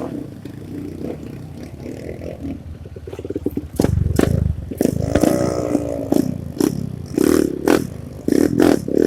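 Honda CRF150 dirt bike's single-cylinder four-stroke engine revving up and easing off, with repeated sharp clattering knocks and scrapes, thickest in the second half.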